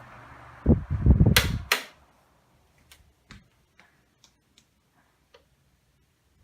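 Galaxy 2150 12-inch oscillating table fan switched off: its steady running hum, a few thumps and two sharp switch clicks, then the motor noise stops and only a few faint ticks are heard as the blades coast down.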